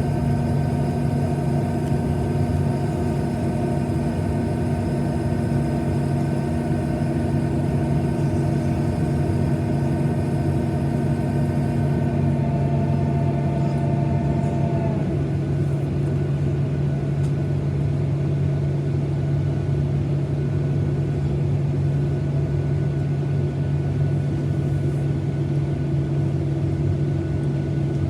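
Steady cabin hum of a Boeing 737-900ER airliner on the ground: a low engine and air-conditioning drone with several whining tones on top. The whining tones fade out between about twelve and fifteen seconds in, while the drone carries on unchanged.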